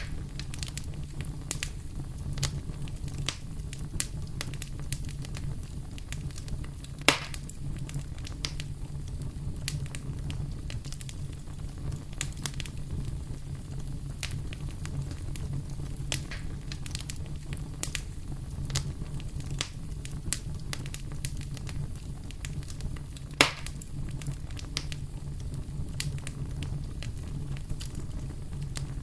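Wood fire burning in a fireplace, crackling steadily over a low rumble of flame, with many small snaps and two louder pops, about seven seconds in and again two-thirds of the way through.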